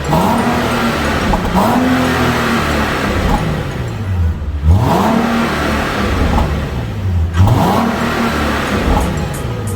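Nissan 370Z's 3.7-litre V6 with the stock exhaust, revving up four times, each time climbing quickly in pitch and then falling back.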